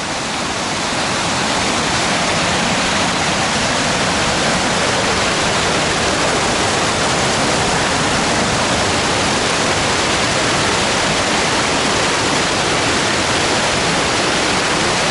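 Fast-flowing water rushing and churning in a steady, loud rush, swelling over the first second or two.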